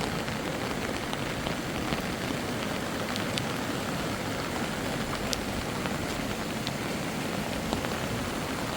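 Rain falling steadily, with a few sharp ticks of single drops.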